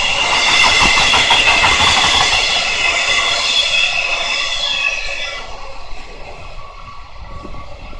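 Freight train's container wagons rolling past at speed: wheels clattering rapidly over the rails, with a steady high-pitched whine over the rumble. The sound fades about five and a half seconds in as the last wagon goes by and the train recedes.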